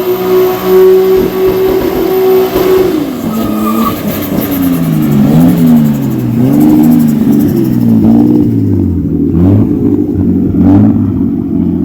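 R32 Nissan Skyline drift car's engine held at high revs, then revved up and down again and again, its pitch rising and falling about every second and a half as the throttle is worked.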